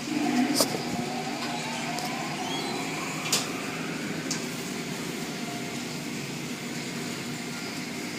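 Car wash machinery running with a steady hum, with a few sharp clicks about half a second, three seconds and four seconds in.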